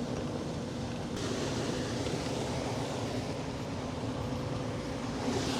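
Steady hum of a boat motor running, over a haze of wind and water noise.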